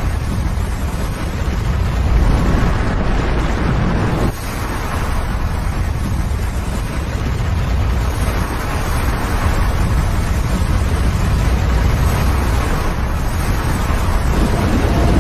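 Avalanche of snow and debris crashing down a mountainside into a river: a loud, steady rushing rumble, heaviest in the low end, with a brief dip about four seconds in.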